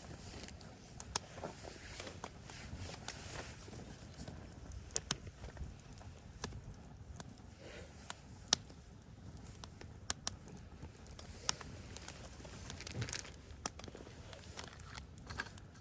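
Wood fire crackling, with scattered sharp pops at irregular intervals over a faint hiss.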